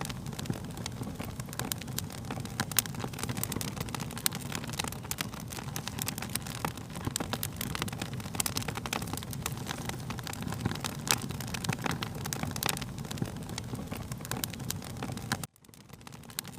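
Fire crackling, with frequent sharp pops and snaps over a steady low rumble of flames. Near the end the sound drops out abruptly for a moment and then fades back in.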